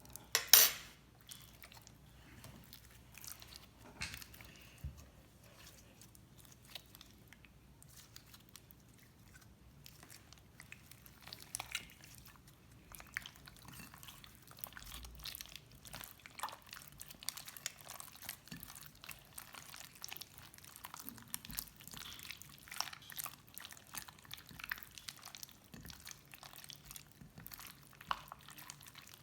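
Slime being squished and worked by hand: a stream of small clicks and pops, denser in the second half, with one louder snap about half a second in.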